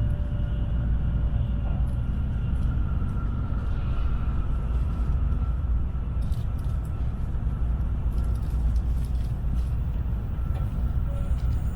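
Tokaido Shinkansen running, heard from inside the passenger cabin: a steady low rumble with a faint steady whine above it.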